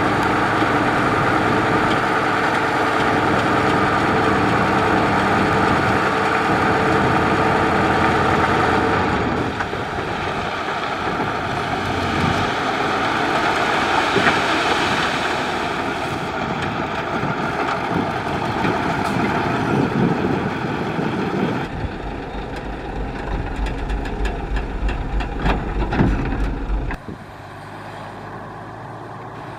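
Heavy diesel construction machinery running, with a steady engine hum at first that gives way to a rougher mechanical rumble. A deep low rumble builds about three-quarters of the way through, then drops away to a quieter run near the end.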